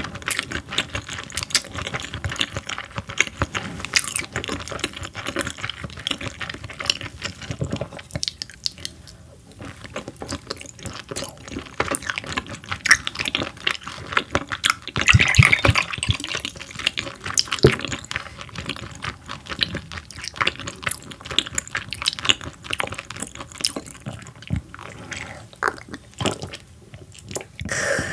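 Close-miked chewing of raw croaker sashimi, with wet, small mouth sounds throughout. About halfway through, soda is poured into a small glass.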